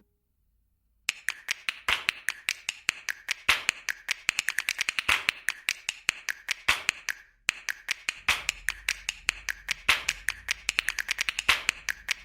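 Rapid, irregular sharp clicking or tapping, several clicks a second, with a short break about seven seconds in.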